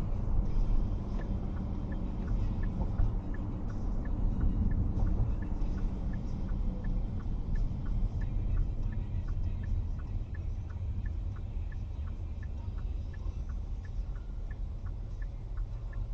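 Low rumble of a car's engine and road noise heard inside the cabin, with a steady light ticking, a few ticks a second, that becomes regular about six seconds in.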